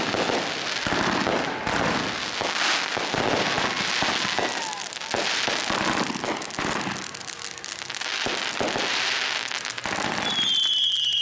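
Several consumer firework cakes firing at once: a dense, continuous run of bangs, pops and crackling. A high whistle begins near the end.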